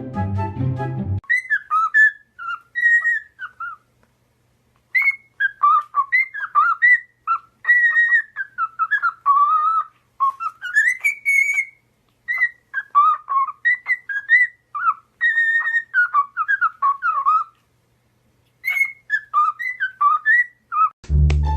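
A parrot whistling a long string of short phrases, the notes gliding up and down, with brief pauses about four seconds in and again near the end. Background music plays briefly at the start and comes back near the end.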